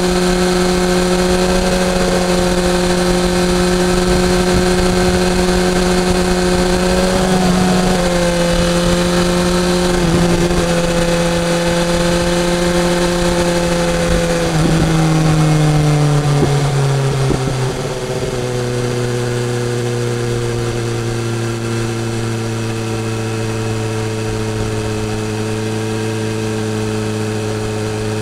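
BMW S1000R's inline four-cylinder engine running under way at steady revs, dipping briefly twice in the first half, then dropping in pitch in steps around the middle and settling at lower, steady revs.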